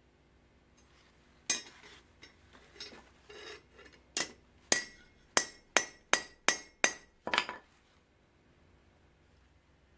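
Hammer striking steel rebar. A single knock and some lighter clinks come first, then about eight sharp ringing blows at two or three a second, with a high metallic ring hanging after them.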